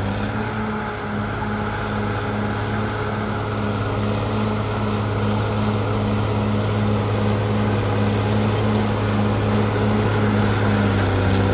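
Diesel engine of a CAT D6R XL crawler bulldozer running steadily, with a regular pulse about three times a second, slowly growing a little louder.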